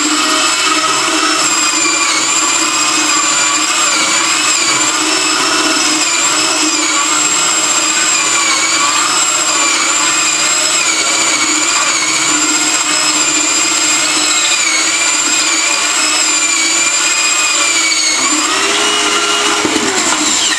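Electric drill running with a spade bit, boring a hole through a wooden board. Its steady whine wavers slightly in pitch under load, shifts near the end, then stops abruptly.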